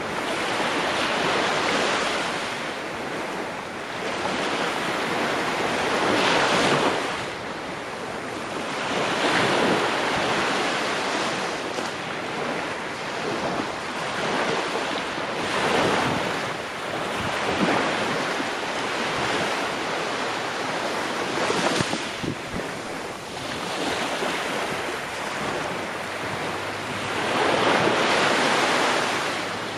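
Ocean waves breaking and washing on the shore, the surf swelling and falling back every few seconds.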